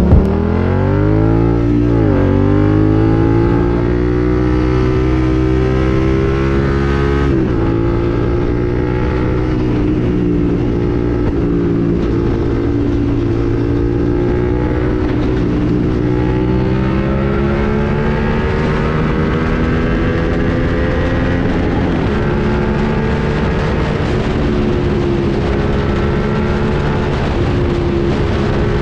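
Suzuki SV650's 645 cc V-twin with an SC-Project slip-on exhaust, heard from the rider's seat, accelerating hard. The note climbs steeply over the first two seconds and breaks briefly at a gear change about seven seconds in. It then rises slowly and holds at high motorway speed.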